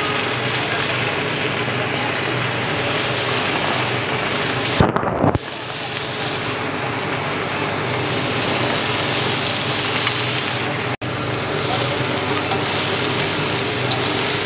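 Diced bottle gourd and black chickpeas sizzling in hot mustard oil in a large iron karahi: a steady crackling hiss, with a brief loud bump about five seconds in.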